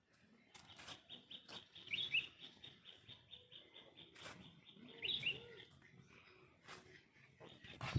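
Faint bird chirps: short high chirping calls about two seconds and five seconds in, among light scattered clicks.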